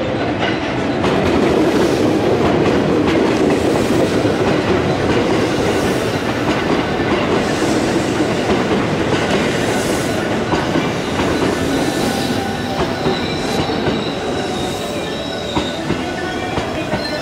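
JR West electric commuter train running alongside the platform, its wheels clattering over the rail joints. A thin, high wheel squeal starts to come in near the end.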